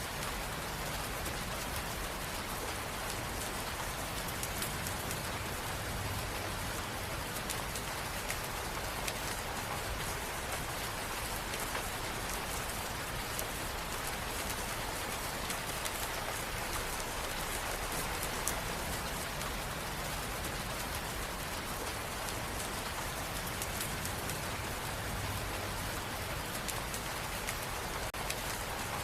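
Steady rain falling, a constant hiss with fine pattering drops and no thunder.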